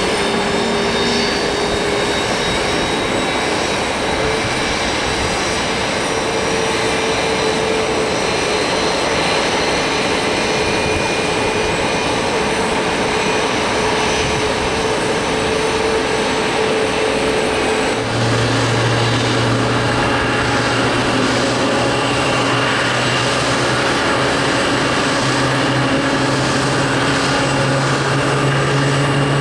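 Airbus A321's IAE V2533-A5 turbofan engines running steadily, with a continuous whine of thin high tones over a broad rush. About 18 seconds in, a strong low hum sets in and rises slowly in pitch to the end.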